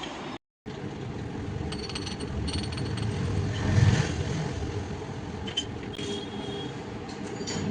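Machine-shop noise: machinery running steadily with a low rumble, a few light metallic clinks, and a swell in loudness about four seconds in. The sound drops out completely for a moment near the start.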